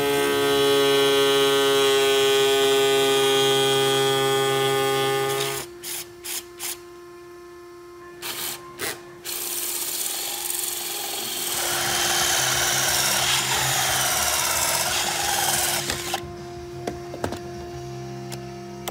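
Handheld power tool working on plastic kick-pod speaker enclosures: a steady motor whine for about five seconds, a few sharp clicks, then a longer, noisier run with wavering pitch.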